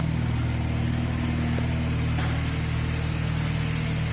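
A 2019 BMW 330i xDrive's 2.0-litre turbocharged four-cylinder engine idling steadily, just after being started by remote start.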